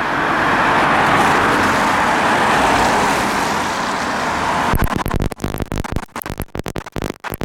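Road traffic noise: a steady rush of passing vehicles with no siren, breaking up into choppy bursts with brief dropouts about five seconds in.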